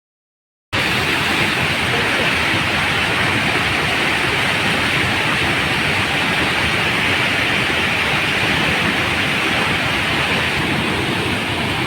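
Floodwater rushing from the Somasila Dam's opened gates: a loud, steady rushing noise that cuts in abruptly just under a second in.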